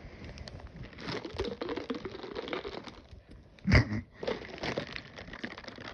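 Ice sliding back and forth inside a plastic Gatorade bottle as it is flipped upside down and back: a dense clatter of small clicks and rattles, with a louder knock a little before four seconds in.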